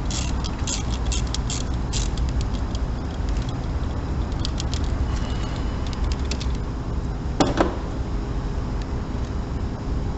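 Socket wrench ratchet clicking in quick runs as a loosened spark plug is backed out of the engine, with a louder metallic clank about seven seconds in, over a steady low rumble.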